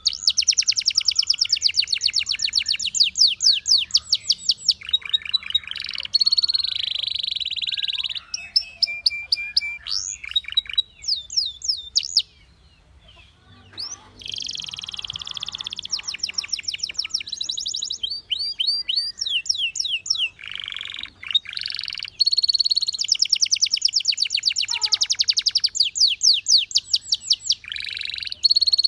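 Canary singing a long song of fast trills and rolling runs of rapidly repeated high notes, mixed with a few short held tones. It breaks off for about two seconds just before halfway, then resumes.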